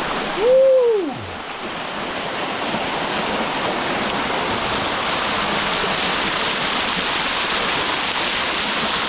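Waterfall pouring into a swimming pool, a steady rush of water. About half a second in, a short vocal sound slides up and then back down in pitch.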